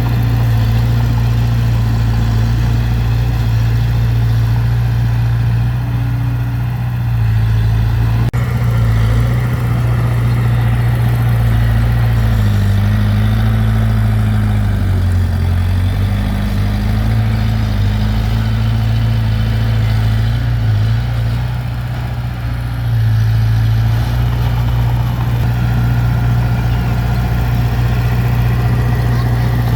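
Heavy diesel engine of earthmoving machinery running steadily at a low, even pitch. Its pitch sags and recovers briefly near the middle, and there is a single sharp knock about eight seconds in.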